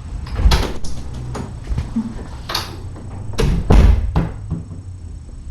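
A series of knocks and thumps, about six in five seconds, with the loudest pair a little past the middle, as objects are handled and moved about.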